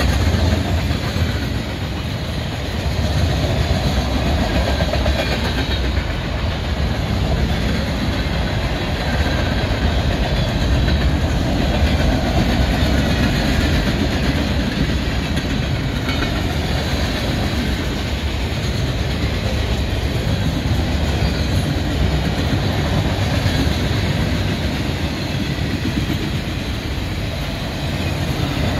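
Freight cars of a manifest train (tank cars, boxcars and covered hoppers) rolling past close by: a steady rumble of steel wheels on the rails.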